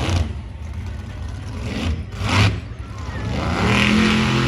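Monster truck engine running and revving up, its pitch climbing and its loudness swelling near the end.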